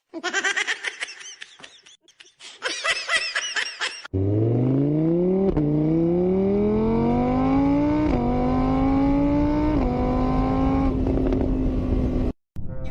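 Car engine accelerating through the gears: its pitch climbs steadily, drops sharply at each of three gear changes, then holds before cutting off. It is preceded by a few seconds of high-pitched, repeated sounds whose pitch arches up and down.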